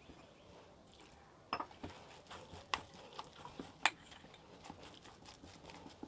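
Spoon knocking and scraping against a bowl while stirring a thick semolina and rice-flour batter: a few sharp clicks, the loudest about four seconds in, with softer wet ticks between.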